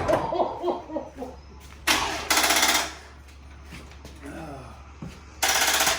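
Starter motor of a 2nd-gen Dodge Ram cranking the engine in two short bursts, a longer one about two seconds in and a shorter one near the end, without the engine catching: the truck won't start. Some talk in between.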